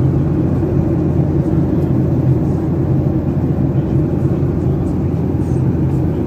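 Steady low rumble of engine and airflow noise inside the cabin of a Boeing 737-800 in flight.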